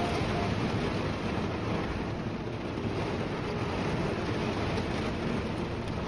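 Steady rain on the roof of a Jeep camper, heard from inside the vehicle as an even hiss.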